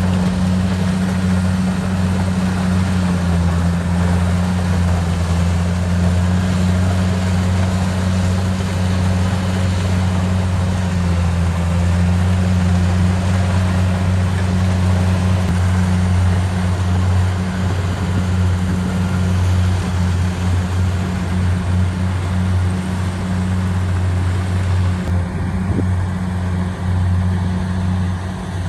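Kubota DC70 Pro combine harvester running steadily, its engine giving a low, even drone.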